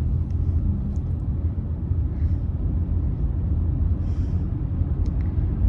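Steady low rumble of a car driving, heard inside the cabin: engine and tyre noise.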